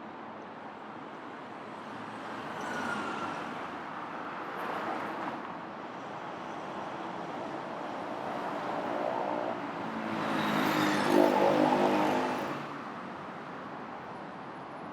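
City street traffic: several cars pass one after another, the loudest going by about ten seconds in with a clear engine hum.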